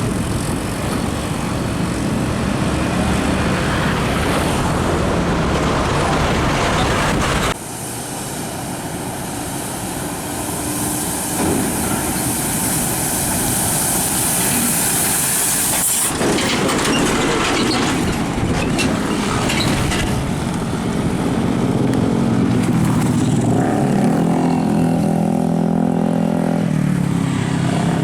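Heavy trucks driving past on the road, with diesel engines running and tyre noise. The sound changes abruptly twice. Near the end a truck's engine pulls with a hum that steps up in pitch.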